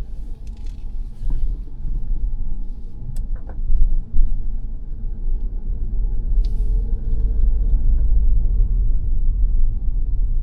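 Inside the cabin of a 2022 Mazda 3 driving slowly: a steady low rumble of engine and tyres, with a few knocks about three to four seconds in.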